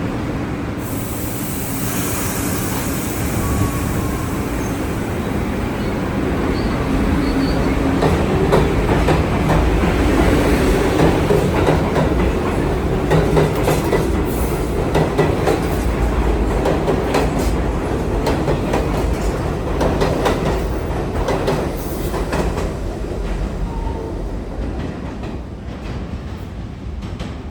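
NYC Subway R62A train on the (6) line running on the rails, with a steady rumble, wheel clatter over rail joints and some wheel squeal. It builds to its loudest in the middle and fades near the end.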